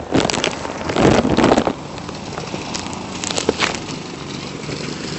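Boots crunching through deep fresh snow in irregular, crackly steps, the loudest about a second in, with wind noise on the microphone.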